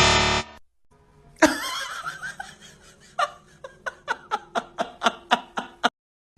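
Laughter sound effect: a snickering laugh, breaking near the end into a run of short, even 'heh' pulses about four a second.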